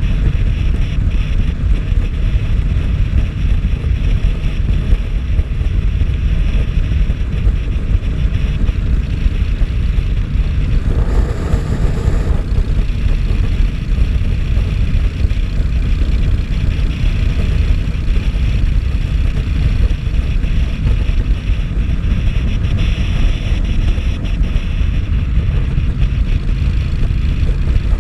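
Steady wind rush and low rumble buffeting the microphone of a moving rider, with a brief louder swell of noise about eleven seconds in.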